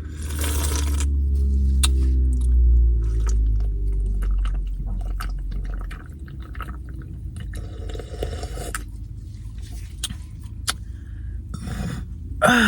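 Liquid from a drink running and sloshing for about six seconds, then scattered small clicks and mouth sounds.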